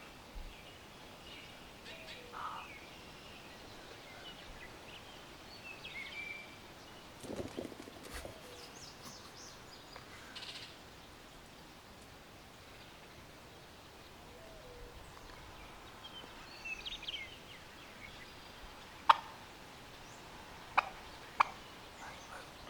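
Faint outdoor ambience with scattered small-bird chirps. Near the end come four sharp, loud turkey clucks, a half second to a second apart.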